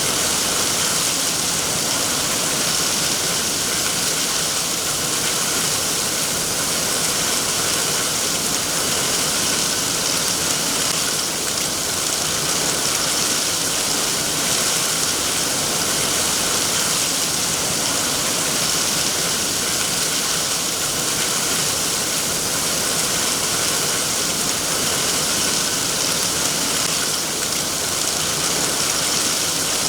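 Steady rain falling, an even hiss with no separate drops or changes.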